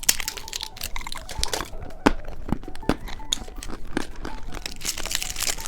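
Crinkly candy packaging being handled and unwrapped: a dense run of rustles and small clicks.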